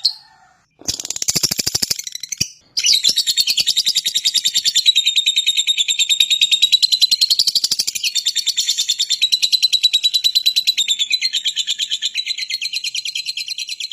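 Small songbird singing a fast, high trill of rapidly repeated chirps. A brief gap near the start is followed by a harsher rattling burst, then a long unbroken trill.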